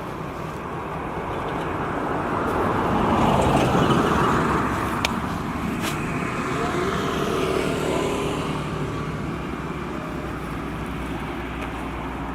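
A tractor engine running. It grows louder to a peak about four seconds in, then eases off, with one sharp click about five seconds in.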